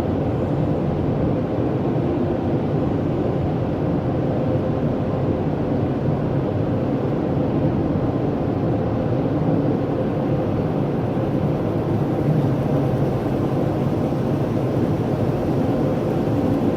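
Car wash equipment running steadily: a constant rush of machinery and spray with a faint steady hum.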